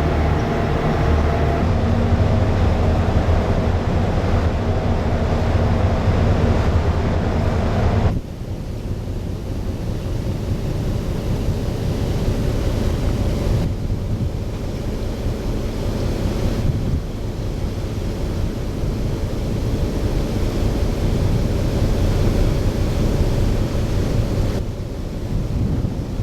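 Heavy port loading machinery running with a steady drone and hum for about the first eight seconds. It then cuts abruptly to wind noise on the microphone over a low, even rumble.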